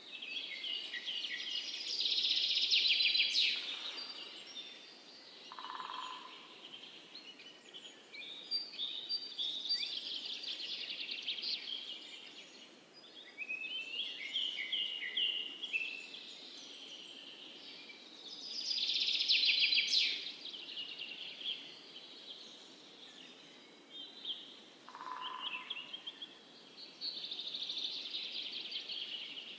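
Birds singing: long phrases of rapid, high trills and chirps that recur every eight or nine seconds over a faint steady background hiss, with a short lower note twice.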